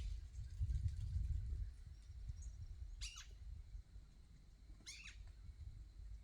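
A bird at a fruit feeding spot giving short, high calls, two of them about two seconds apart, over a low rumble.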